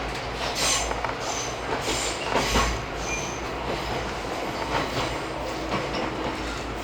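Izuhakone Railway 3000 series electric train running, heard from inside the car: a steady low rumble with several brief high-pitched wheel squeals in the first few seconds, and faint clicks from the rails.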